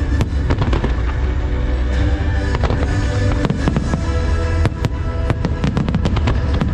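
Rapid fireworks bursts, many sharp bangs in quick clusters, over loud show music with a heavy bass.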